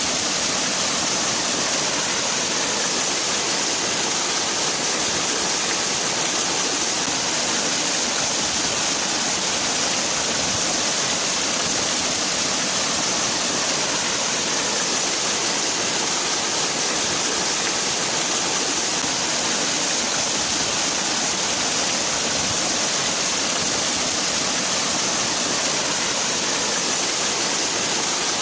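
Waterfall: water falling and splashing in a steady, unbroken rush, bright and hissy.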